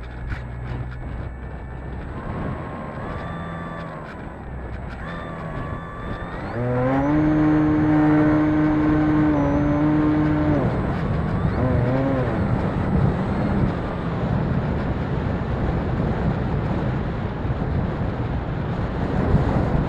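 Electric RC model airplane motor whining in flight. Its pitch rises sharply about six and a half seconds in and holds loud for about four seconds, then wavers and fades away. Steady wind noise on the microphone throughout.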